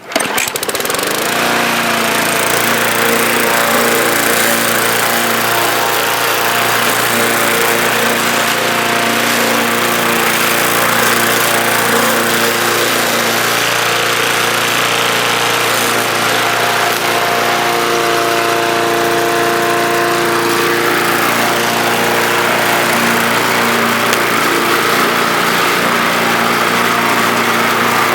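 5.5 hp Briggs & Stratton engine on a Bolens walk-behind lawn mower starting up suddenly and then running steadily at speed.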